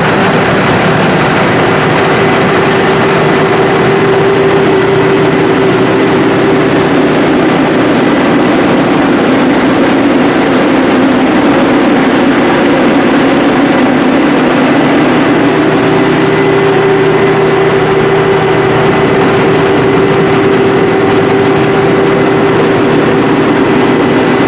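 Sakpattana SS-300 Black Bird combine harvester with its 5-cylinder, 170 hp engine running steadily. It makes a loud, unbroken drone with a thin high whine above it.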